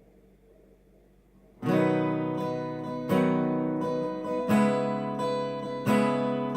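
Acoustic guitar opening a song's introduction. Strummed chords start suddenly about a second and a half in and are struck roughly every one and a half seconds, each left to ring.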